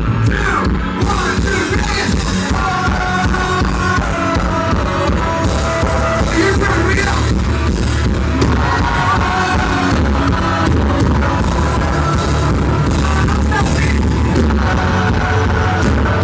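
Live country-rock band playing loud, heavy bass and drums with crashing cymbals and singing, in a poorly recorded, muddy audience recording. The band has lead guitar, bass, keyboards or banjo, and drums.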